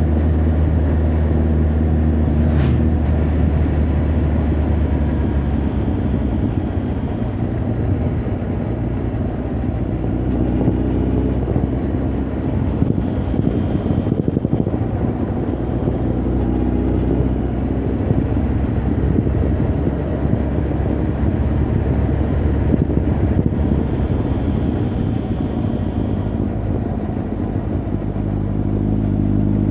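Honda CB1300 Super Bol d'Or's inline-four engine and exhaust on the move, heard from the rider's position. The steady engine note is clear at first, is overlaid by wind and road noise through the middle, and comes back clearly near the end. A brief click comes about two and a half seconds in.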